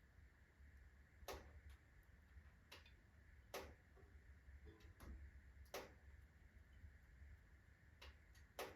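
Birch-log fireplace fire in its slow burn-down, giving faint, sparse crackles and pops, about seven sharp snaps spread unevenly across a low steady hiss.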